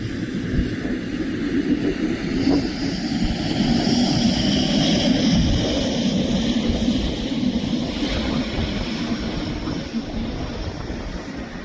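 An aircraft passing, its engine noise swelling to its loudest about five seconds in and then fading, with wind buffeting the microphone.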